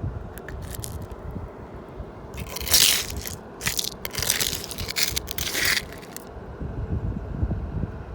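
Loud crunching and crackling, something brittle being crushed or broken, in several bursts over about four seconds starting a couple of seconds in, preceded by a few faint clicks. Low wind rumble on the microphone throughout.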